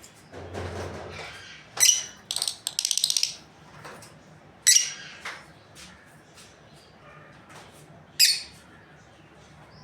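Lovebirds giving sharp, shrill chirps: single calls spaced a few seconds apart and one rapid chattering run of about a second. A brief rustling noise comes just before the first call.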